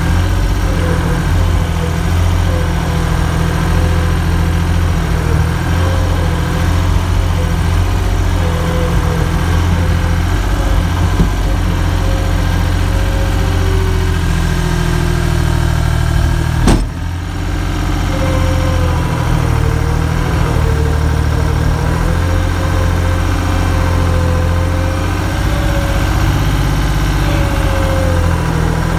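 A vehicle engine running steadily with a deep rumble and a wavering whine over it, broken by one sharp click a little past halfway.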